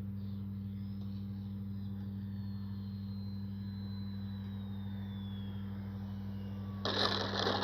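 Brushless electric motor and propeller of an FMS Ranger 1220mm RC plane in flight, a thin whine that slowly falls in pitch over several seconds, over a steady low hum. A burst of rushing noise comes in near the end.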